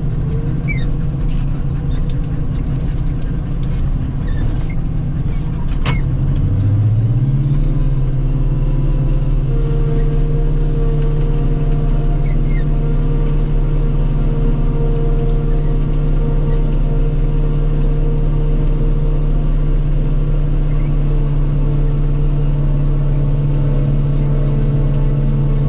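Self-propelled forage harvester heard from inside the cab, its engine running steadily. A few short clicks come in the first seconds, the sharpest about six seconds in. The engine then speeds up with a rising pitch and holds a steady, higher hum.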